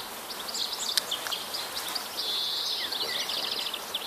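Small songbirds singing: short high chirps throughout, a buzzy note about two seconds in, then a rapid trill, over steady outdoor background noise.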